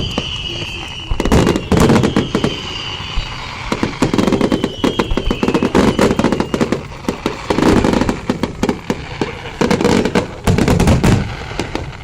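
Fireworks bursting in rapid crackling volleys, four dense clusters of cracks and bangs with short lulls between them. High whistles sound over the first half.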